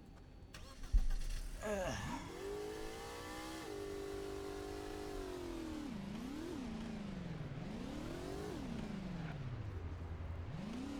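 Car engine starting with a thump and revving up, then running and rising and falling in pitch several times as the car drives off and accelerates.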